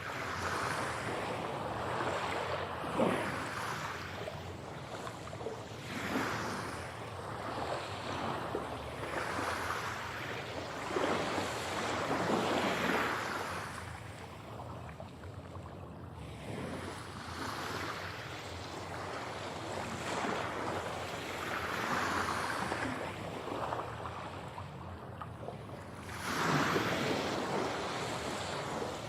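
Ocean waves breaking and washing on a shore, one swell after another every few seconds over a steady rush of surf.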